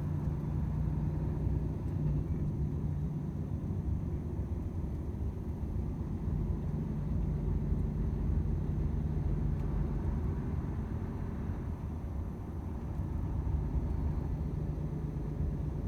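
Volvo FH 500 truck's 13-litre six-cylinder diesel engine and tyre noise while driving at a steady pace: an even, low drone with no changes in pitch.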